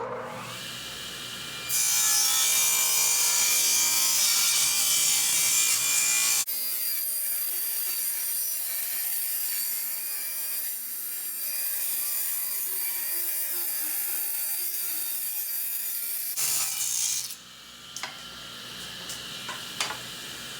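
Table saw ripping a 2x4 lengthwise, taking the rounded factory edge off the board. The saw comes up to speed about two seconds in and cuts steadily. Its sound changes abruptly about six seconds in and runs on more quietly until it stops around seventeen seconds, followed by a few light knocks.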